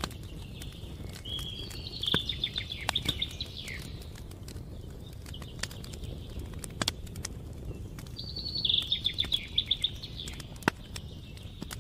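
A songbird sings two trilled phrases about six seconds apart, over the scattered pops and crackles of a campfire and a low steady rumble.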